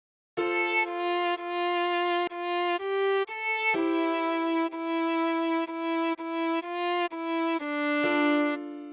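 Solo viola playing a slow melody one bowed note at a time, about fifteen notes of roughly half a second each in a narrow middle range. A last held note near the end fades away.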